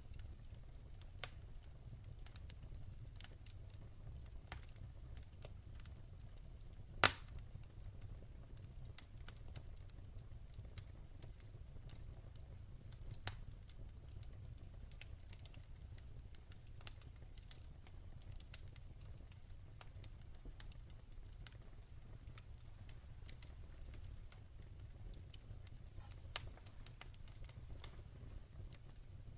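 Campfire crackling, with scattered small pops over a steady low rumble and one loud sharp pop about seven seconds in.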